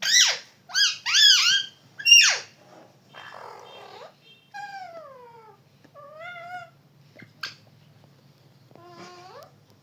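Pet parrot calling: a run of four loud arching squawks in the first two and a half seconds, then a short breathy hiss and softer whistles, one sliding down in pitch, one wavering, and a few rising notes near the end.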